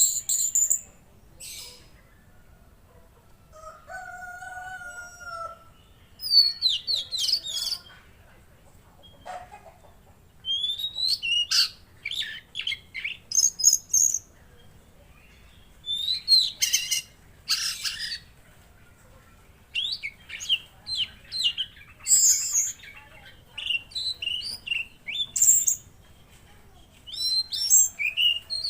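Tledekan laut (a blue flycatcher) singing: short bursts of rapid, high chirping notes that fall in pitch, repeated every second or two. A lower, drawn-out two-note call sounds once, a few seconds in.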